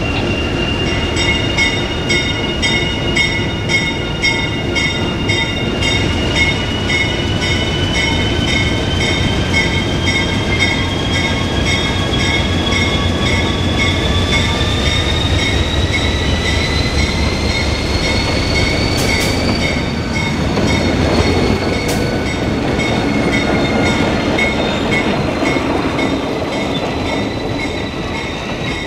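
Freight train behind an ALCO RS-1 diesel locomotive rolling slowly with a low rumble, its wheels squealing on the rails in long, high, shifting tones that slowly rise in pitch and then ease back down.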